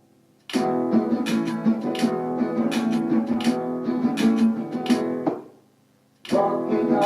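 Acoustic guitar strumming chords in an instrumental passage of a song, breaking off twice: briefly at the start, and for about a second near the end before starting again.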